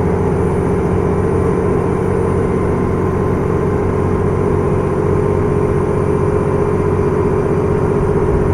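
Diesel engine of a KiHa 110-series railcar running with a steady note while the train travels at speed, heard inside the car, with the even rumble of the wheels on the track.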